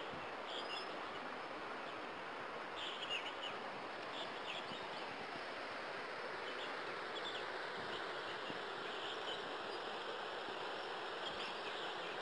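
Small birds chirping in short scattered calls, a few at a time, over a steady rushing hiss.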